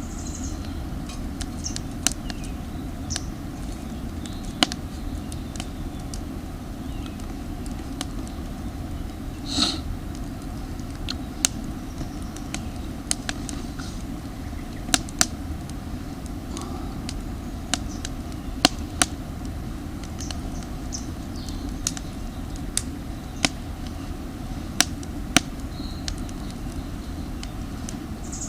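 Campfire of damp firewood crackling: sharp, irregular pops and snaps, roughly one or two a second, over a steady low rumble.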